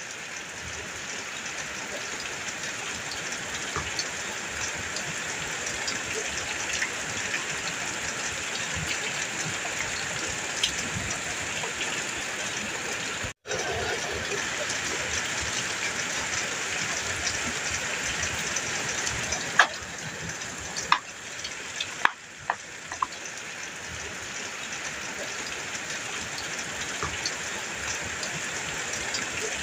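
Heavy rain drumming on a metal roof: a steady hiss scattered with sharp drop strikes, with a few louder taps about two-thirds of the way through. The sound cuts out for an instant about 13 seconds in.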